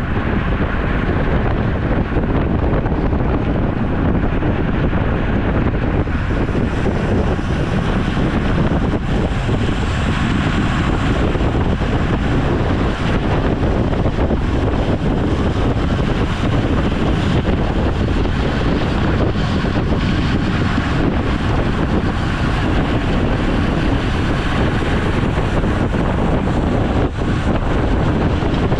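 Loud, steady wind noise buffeting the microphone of a camera riding along on a road bike.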